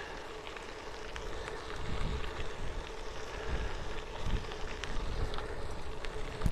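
Bicycle rolling along a trail on an old railway bed, its tyres crackling over the stony surface in scattered small ticks, with a faint steady hum. Wind buffets the microphone in low gusts from about two seconds in.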